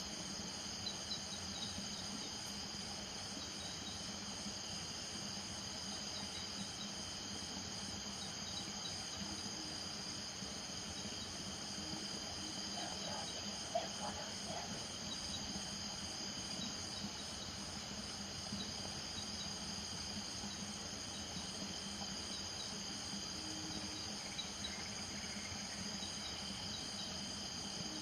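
A night chorus of crickets trilling steadily in several high-pitched layers, with short chirps repeating through it. A few brief low calls, typical of frogs or toads from a marsh, come through now and then.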